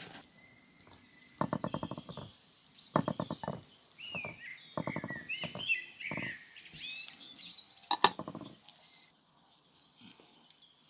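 Birds calling: four short bursts of rapid pulsing calls, with higher chirping glides in the middle.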